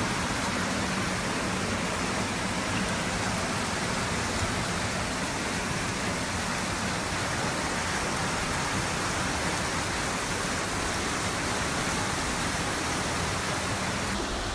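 Flash floodwater rushing through a street, mixed with heavy rain: a steady, unbroken wash of water noise.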